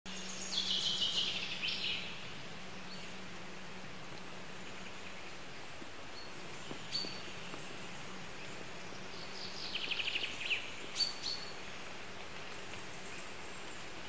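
Coal tit calls: a rapid series of high notes about half a second in, single short chirps after it, and another quick trill followed by two sharp chirps around ten seconds in. Steady outdoor background hiss throughout.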